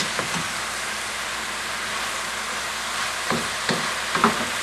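Sliced mushrooms sizzling in a stainless steel pan as they sweat down with salt, stirred with a wooden spoon. There are a few short knocks and scrapes of the spoon against the pan in the second half.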